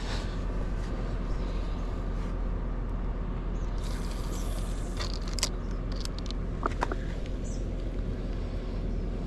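Steady low rumble and hiss of outdoor background noise, with a few faint clicks and ticks about five to seven seconds in.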